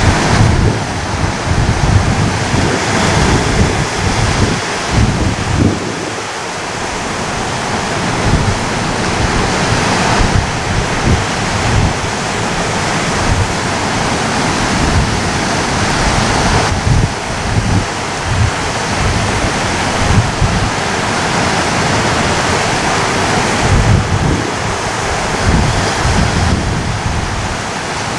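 Ocean waves breaking and washing up the shore: a continuous rushing hiss that swells and eases every several seconds over a low rumble.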